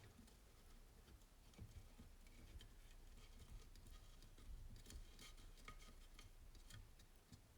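Near silence broken by faint, scattered light clicks and ticks of small metal engine parts being handled and turned by hand on a motorcycle crankcase half.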